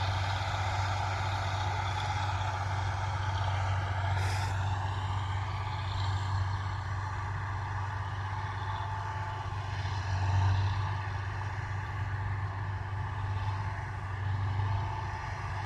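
Wheat combine harvester's engine running steadily under load, with a strong low hum. About four seconds in there is a brief hiss and the engine note rises slightly.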